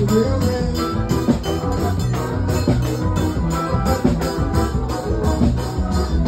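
Live band music with a steady beat of drums and shaker-type percussion under sustained instrumental notes.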